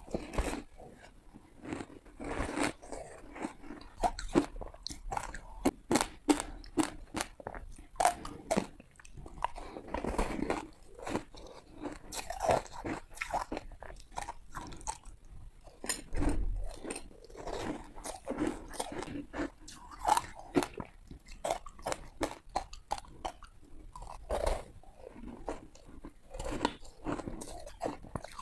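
Ice being bitten and chewed close to the microphone: repeated sharp crunches and crackles, in clusters of quick snaps one after another.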